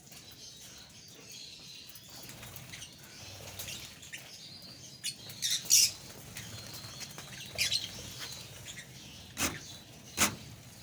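A flock of small pet parrots chirping in short high calls, loudest about halfway through, with a couple of sharp taps or flutters near the end.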